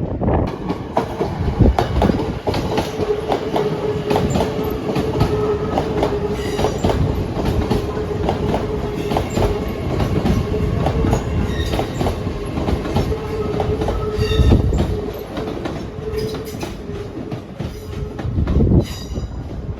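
Train running past on the rails, its wheels clicking rapidly over the rail joints, over a steady hum. A brief high-pitched wheel squeal comes near the end.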